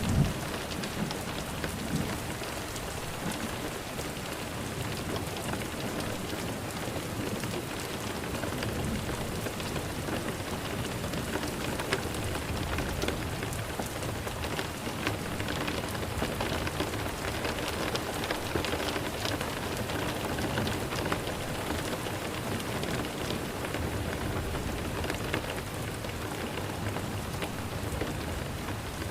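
Steady rain: a constant hiss of falling rain with many separate drops ticking on a hard surface.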